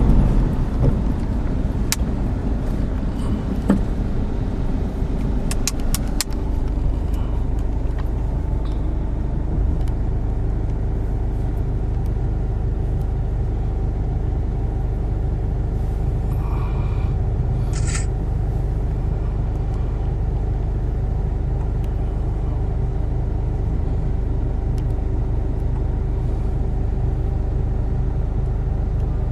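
Steady low rumble of a motor vehicle engine running, with a steady hum over it. A few sharp clicks come in the first several seconds, and a brief higher-pitched sound comes a little past halfway.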